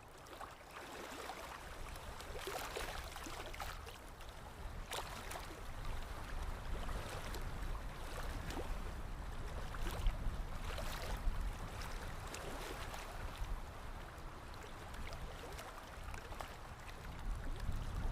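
Paintbrush working acrylic paint on canvas: irregular scratchy strokes and dabs, over a low rumble.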